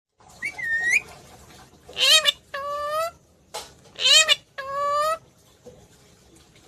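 Pet parrot vocalizing: a short call, then two drawn-out calls about a second long, each dipping and then slowly rising in pitch.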